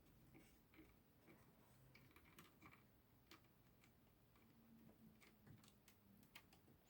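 Near silence with a few faint, irregular clicks from a screwdriver driving in a small screw.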